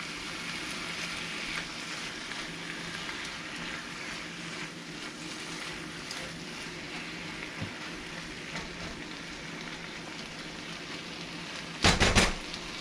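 Chopped fish and sofrito sizzling steadily in a nonstick frying pan, stirred now and then with a spoon. Near the end comes a brief loud clatter of two or three knocks.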